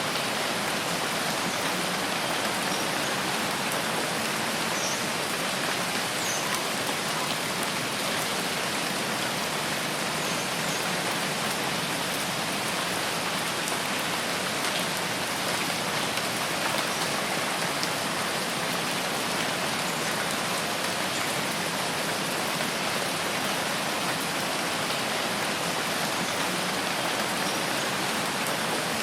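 Steady rain falling on a forest, an even hiss of drops with no break or change.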